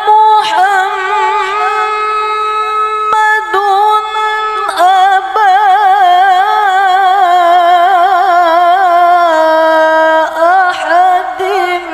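A woman reciting the Quran unaccompanied in the melodic tilawah style, holding long drawn-out notes with wavering ornaments and a short break about three seconds in.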